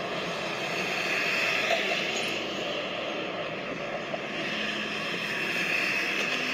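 Steady distant drone of an AMT diesel commuter train running across a bridge.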